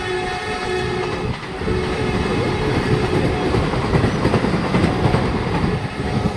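Vande Bharat Express train running at speed on the rails: a loud, steady rumble with wheels clattering over the track.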